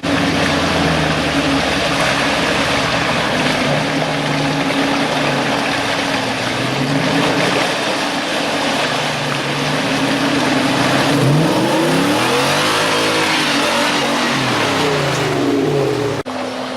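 Off-road truck engine revving under load over a steady noise haze. The revs climb and fall back about two thirds of the way through, and near the end the sound cuts abruptly to a different steady engine note.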